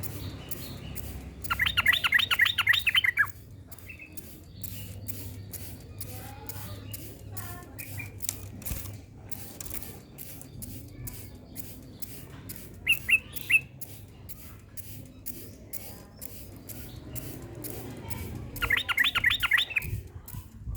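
Yellow-vented bulbul (cucak trucuk) singing in three bursts of rapid repeated notes. The first comes about a second and a half in, a short one near the middle, and the last near the end; the first and last each last about a second and a half.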